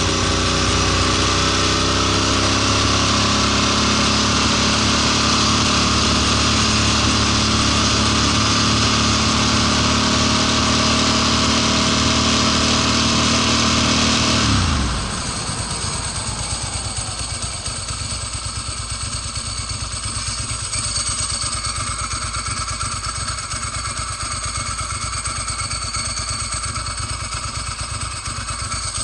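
Ducati Monster S4's L-twin engine running steadily at high revs, its pitch creeping slightly upward, then cutting out about fifteen seconds in, the pitch falling away fast. This is the owner's fault: the bike dies at around 7k rpm in first gear. After it stops, a steady hiss with faint high whines remains.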